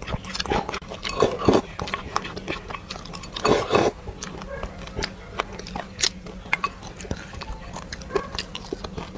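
Eating close to the microphone: sesame seeds being chewed and crunched with many small clicks. A wooden spoon scrapes food from a glass bowl into the mouth about three and a half seconds in.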